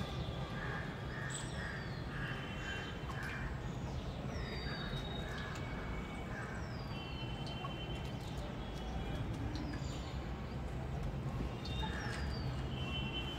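Several birds calling: a short, high whistle falling in pitch repeats every second or two among chirps and short trills, over a steady low rumble.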